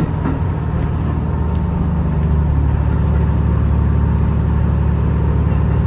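Senseki-Tōhoku Line train, an HB-E210 hybrid diesel-electric unit, running with a steady low drone.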